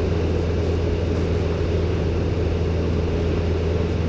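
Robin DR400-120 light aircraft's four-cylinder piston engine and propeller droning steadily in cruise, with a deep, even hum and no change in pitch.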